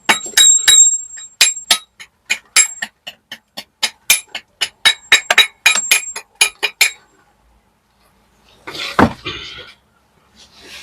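Hammer blows ringing on a steel chisel, chipping at brickwork, about three strikes a second, stopping about seven seconds in. A short, pitched, voice-like sound follows about nine seconds in.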